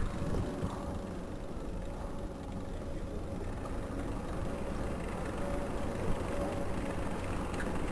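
Low, steady rumble of street traffic and a rolling electric Citi Bike, with a faint steady whine throughout and a brief knock about six seconds in.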